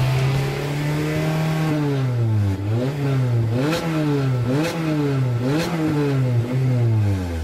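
Four-cylinder engine of an FD2 Honda Civic through an aftermarket GT-Exhaust, revved up and held, then blipped repeatedly about once a second, the revs climbing and dropping sharply each time before falling away at the end.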